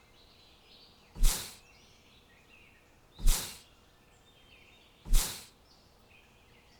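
Three loud, short swishing bursts, evenly spaced about two seconds apart and each fading quickly, over faint bird chirping.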